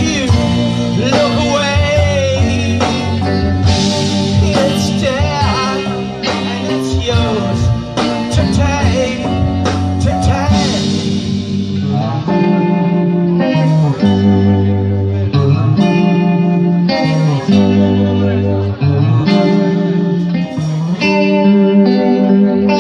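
A rock band playing: an electric guitar lead with bent, wavering notes over bass and drums, giving way about halfway through to steady riffing with a prominent bass line.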